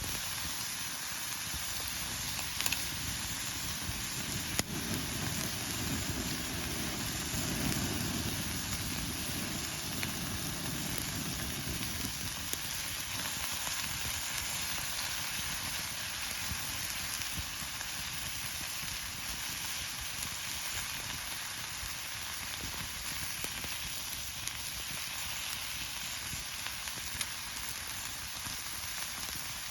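Steady sizzling and crackling from beef tongue cooking on an iron griddle over a campfire, with a few sharp pops in the first five seconds.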